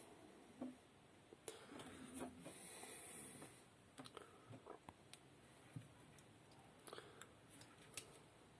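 Near silence with faint scattered clicks and a soft rustle: hands turning a geared e-bike hub motor slowly.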